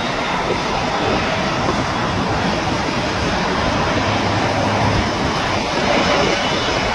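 Jet airliner engines running, heard as a steady, even rushing noise with no clear tone.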